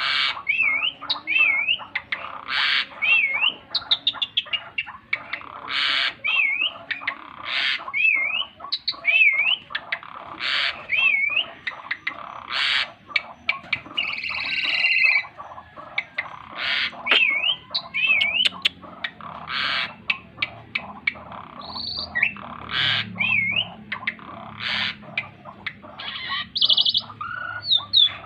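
Asian pied starling (jalak suren) singing hard and without pause: a busy run of harsh, scratchy squawks mixed with short looping whistles that rise and fall, repeated over and over.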